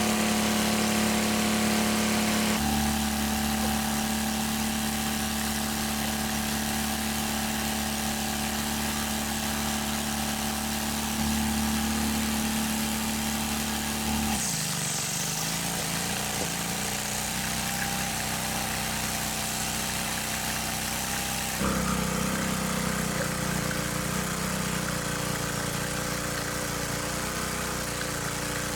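Small engine running steadily at a constant speed; its pitch shifts abruptly three times.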